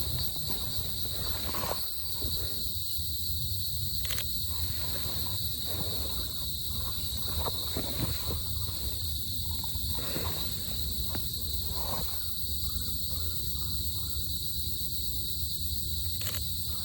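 Steady high-pitched insect chorus, a continuous drone of several high tones, over a low rumble. A few sharp clicks stand out, one about four seconds in and one near the end.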